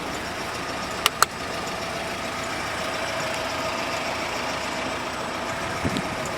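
GAZelle Business van's engine idling steadily, with two quick clicks about a second in.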